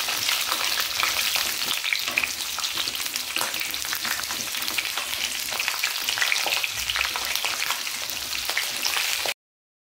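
Whole baby potatoes and small onions frying in hot mustard oil in a stainless-steel pan, with a steady crackling sizzle, while a wooden spatula stirs and scrapes them around the pan. The sound cuts out suddenly near the end.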